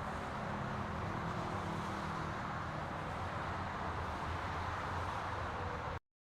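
Santiago Metro AS-02 train running between stations: a steady rumble with a low hum underneath. It cuts off abruptly near the end.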